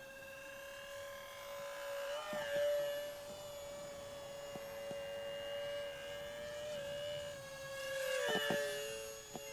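The twin electric ducted fans of a foam RC jet whining steadily in flight. The whine swells louder twice, about two and a half and eight seconds in, as the jet passes closer, and its pitch dips slightly near the end.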